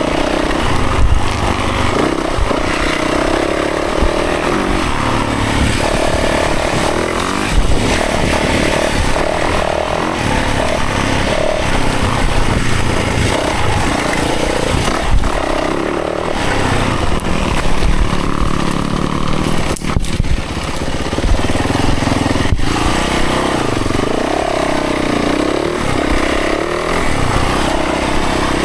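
Dirt bike engine revving up and down over and over as the bike is ridden along a tight single-track trail, with a couple of sharp knocks about two-thirds of the way through.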